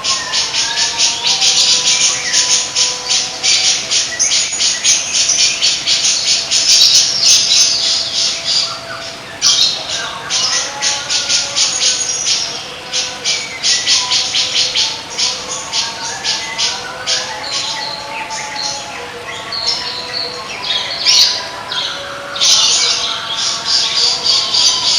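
Cage songbirds singing: a loud, rapid, high-pitched chattering trill of many quick notes a second, easing off a little past the middle and coming back strongly near the end, over lower whistled and warbling phrases.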